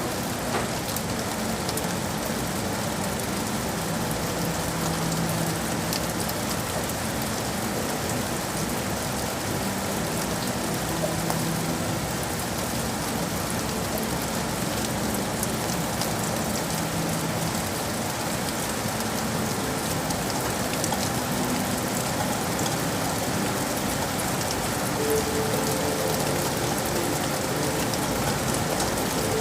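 Steady rain falling on hard surfaces, an even hiss with scattered drop ticks. A faint low hum comes and goes underneath.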